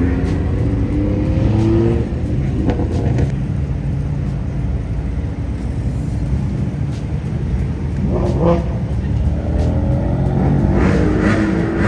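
Car engines accelerating, rising in pitch near the start and again near the end, over a steady low engine rumble.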